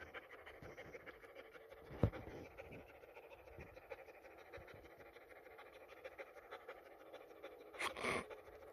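Dog panting quietly and steadily, with a single knock about two seconds in and a short, louder pitched sound near the end.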